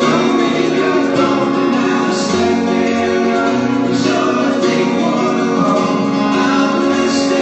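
A live band playing a song at a soundcheck: guitar with singing, loud and continuous.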